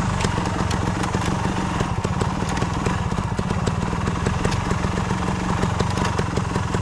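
Dirt bike engine running steadily at low revs, with scattered short clicks.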